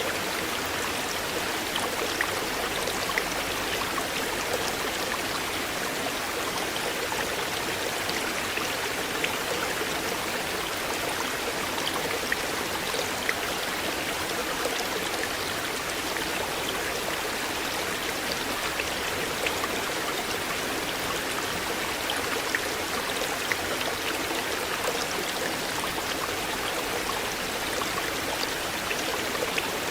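River water flowing steadily, an even rush of running water with small splashes now and then.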